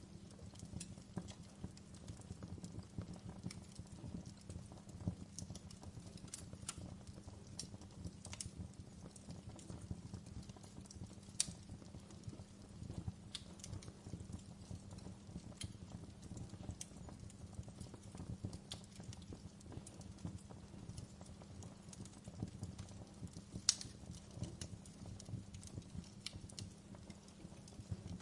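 Fireplace wood fire crackling: scattered sharp pops and snaps over a steady low rumble of the burning fire. Two pops stand out louder, about 11 seconds in and near 24 seconds in.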